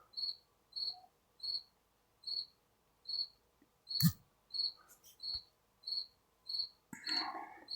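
A cricket chirping steadily, one short high chirp about every three-quarters of a second, with a single knock about four seconds in.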